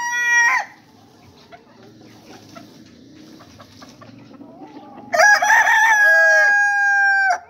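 Rooster crowing: the tail of one crow in the first half-second, then a full crow about five seconds in that ends in a long held note and cuts off sharply.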